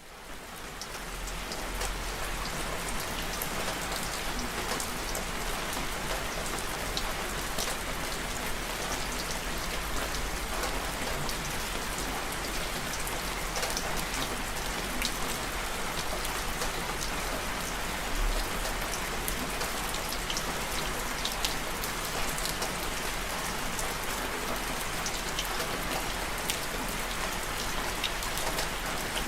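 Steady rain falling and pattering on a surface, with distinct drop hits over an even hiss; it fades in over the first second or two.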